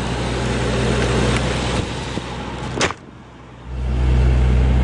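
Mercedes-Benz S65 AMG's twin-turbocharged 6.0-litre V12 idling with a steady low hum. A single sharp click comes about three seconds in, then a brief quieter gap. After that a louder, deeper idle hum picks up.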